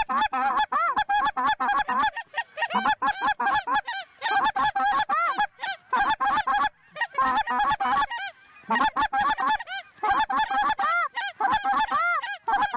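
Canada goose honking and clucking: many short calls overlapping in quick succession, broken by a few brief pauses.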